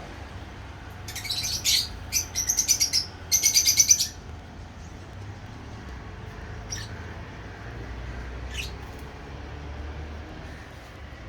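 Lovebirds chirping: three quick runs of rapid, high, shrill chirps in the first few seconds, then two single short calls later on.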